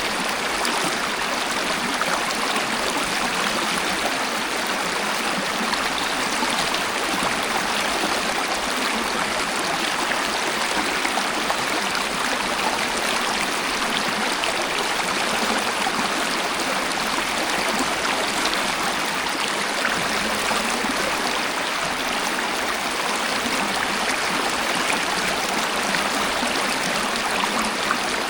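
Waterfall water rushing steadily and evenly, with no breaks and little deep rumble.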